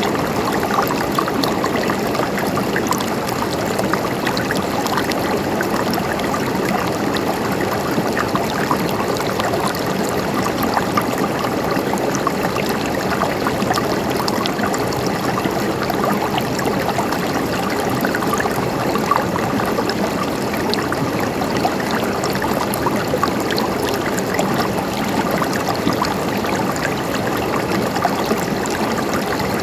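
Mountain stream flowing steadily, water gurgling and trickling over rocks with small splashes.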